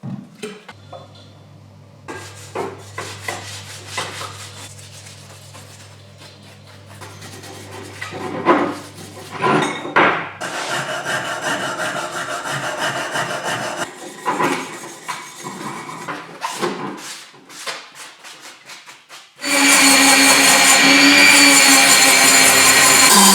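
Rust being scraped and rubbed off metal parts by hand in many irregular strokes. Near the end a power tool starts up and runs loudly and steadily.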